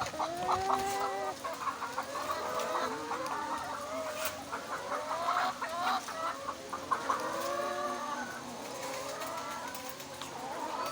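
A flock of laying hens clucking, many short rising and falling calls overlapping one another.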